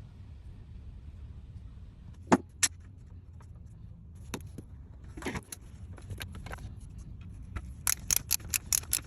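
Sharp metallic clicks and clinks of tools or metal parts being handled: two loud clicks a little over two seconds in, a few more around the middle, and a quick run of clicks near the end, over a low steady hum.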